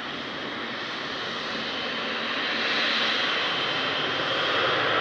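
Boeing 777 freighter's twin GE90 turbofans at takeoff power: steady jet noise with a faint high whine, growing louder about two seconds in.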